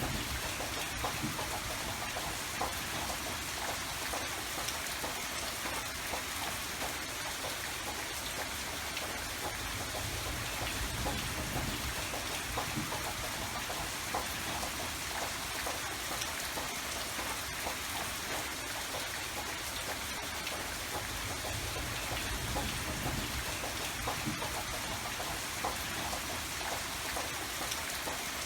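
Steady rain falling, an even hiss of drops hitting a surface with scattered individual drop patters.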